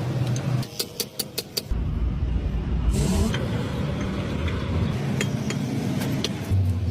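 A quick run of sharp metallic clicks, then a vehicle engine running with a steady low rumble from a little under two seconds in.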